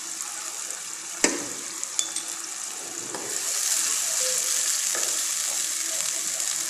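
Fried onions, yogurt and ginger-garlic paste sizzling in hot oil in a non-stick pan, with one sharp tap about a second in. The sizzle gets louder about three seconds in as the mixture is stirred round the pan.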